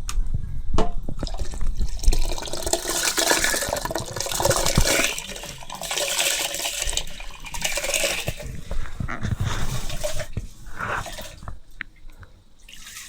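Water splashing and pouring in uneven surges, with scattered small knocks.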